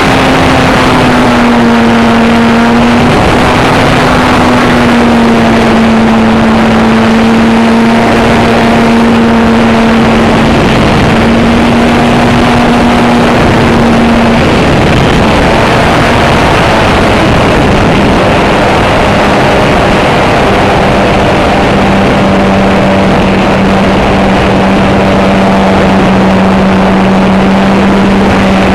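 RC model airplane's motor and propeller running steadily, its tone dropping slightly about halfway through, under a heavy rush of wind on the microphone.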